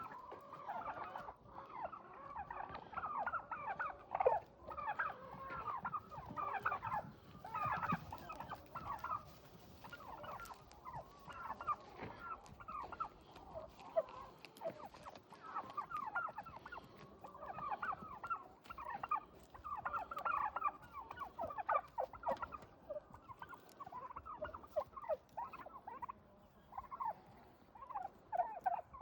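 Domestic turkeys gobbling, one rapid rattling gobble after another with the calls overlapping.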